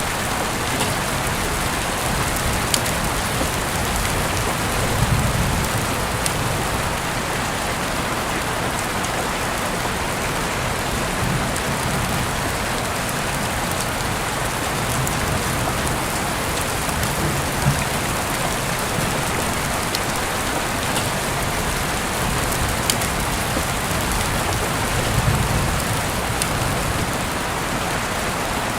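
Steady heavy rain hiss, with soft low rumbles swelling every few seconds and a few faint sharp ticks over it.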